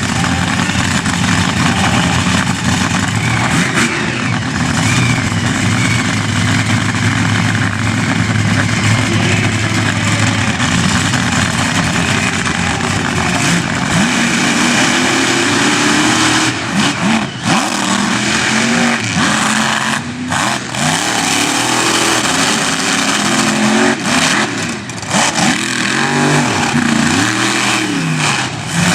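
Monster truck engine running loud, held fairly steady at first, then revved up and down over and over in the second half, with a few brief drops as the throttle is lifted.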